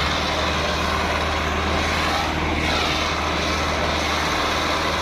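Millat (Massey Ferguson) tractor's diesel engine running hard and steady under load while pulling a disc harrow in the contest, a constant low drone with a dense rush of engine noise over it.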